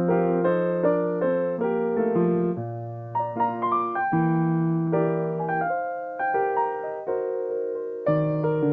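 Solo piano playing a slow, gentle melody over held bass notes, the chords changing every second or two.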